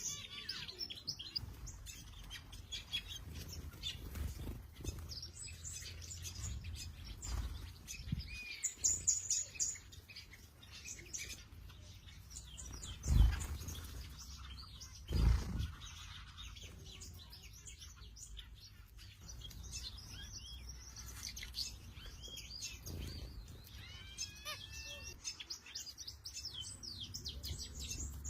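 Small birds chirping and calling in short, repeated notes and quick glides. Two dull low thumps come about two seconds apart midway and are louder than the birdsong.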